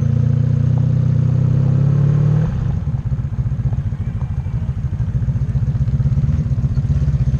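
Motorcycle engine running under steady throttle, then easing off about two and a half seconds in and settling to a lower, pulsing idle-like beat.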